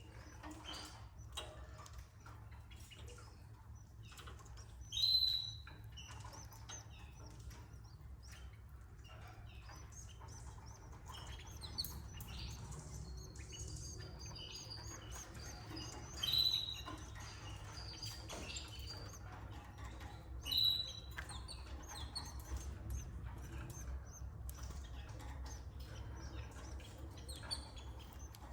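Canaries chirping: three short, louder high chirps stand out, spread through the stretch, among fainter scattered chirps and light clicks and rustling, over a steady low hum.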